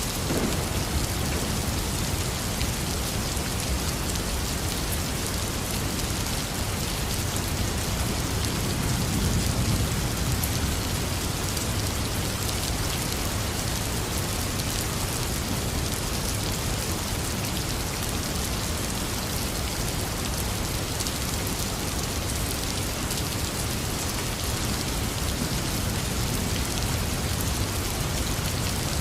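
Heavy rain falling steadily, a dense even hiss of drops on surfaces. A low rumble of thunder swells and fades about a third of the way in.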